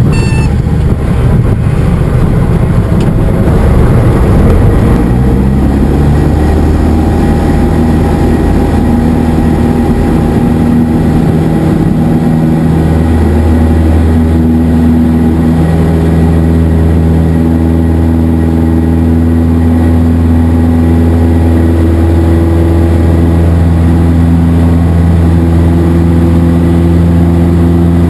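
Cessna 172SP's four-cylinder Lycoming engine and propeller during a touch-and-go. A rough rumble at first, then the engine note rises as power is brought in, steps up again about halfway through, and holds a steady loud drone at climb power.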